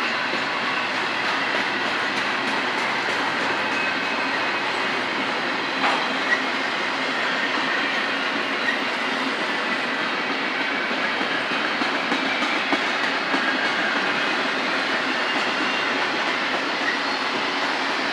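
Railroad cars rolling past in a steady, continuous rumble of wheels on rail, with a couple of sharp knocks about six seconds in and scattered lighter clicks after.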